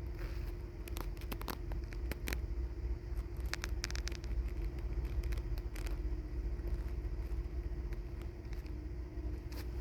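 A motor vehicle's engine running steadily: a low rumble with a steady hum, and scattered small clicks and crackles.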